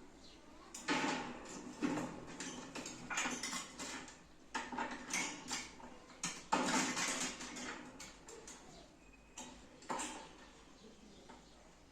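Irregular clattering and clinking in a run of bursts, dying away about ten seconds in.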